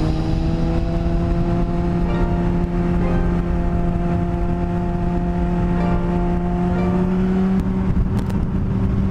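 Motorcycle engine running at a steady cruise, its pitch creeping slowly upward and stepping up once about three-quarters of the way through, over low wind and road rumble.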